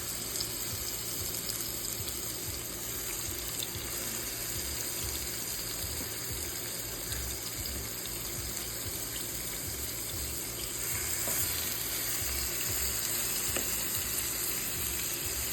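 Chicken pieces frying skin-side down in hot oil in a pan: a steady sizzle with small scattered pops, a little louder about two-thirds of the way in.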